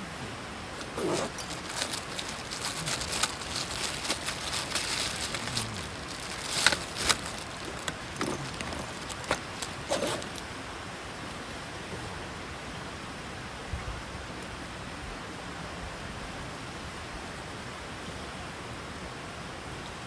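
Steady outdoor hiss with rustling, handling noises and a few sharp knocks for the first ten seconds or so, then only the hiss.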